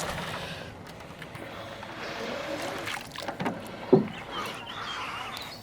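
Water splashing and dripping as a magnet on its rope is hauled up through a pond, with a few short knocks. The loudest is a sharp knock just before four seconds in.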